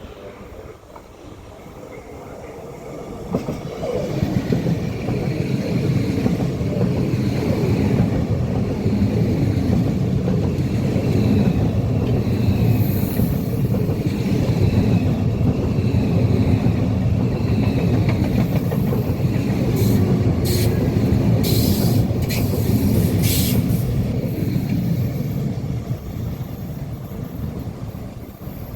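A train running past on the track: a rumble of wheels and running gear comes up about three seconds in, holds steady, and fades near the end. A few short sharp clicks or squeals are heard about two-thirds of the way through.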